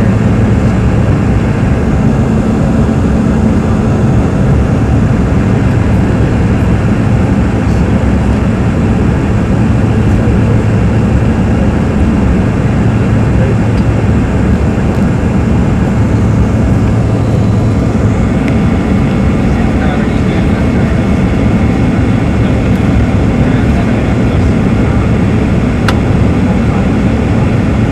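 Steady cabin noise inside a Bombardier CRJ-200 regional jet: its rear-mounted General Electric CF34 turbofans running with airflow noise, and a low hum that fades about two-thirds of the way through.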